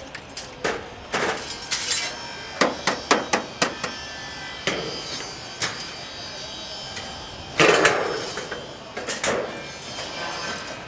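Irregular hammer strikes and knocks on sheet metal while chimney cladding is fitted, with a quick run of blows a few seconds in and a longer, louder burst of noise about three-quarters of the way through.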